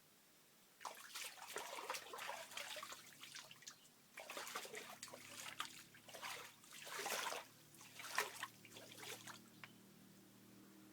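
Water splashing and trickling in irregular bursts with short pauses, starting about a second in and stopping near the end. A faint low steady hum comes in about halfway.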